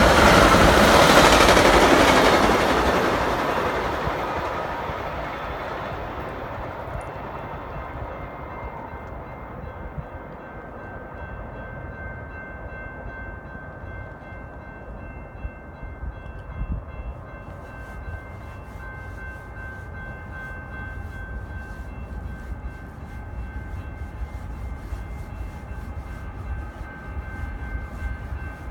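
Metra bilevel commuter train rolling past on steel rails, its noise fading away over the first several seconds as it leaves. After that, a quieter steady rail background with a few thin, steady high tones, rising slightly near the end as another train draws closer.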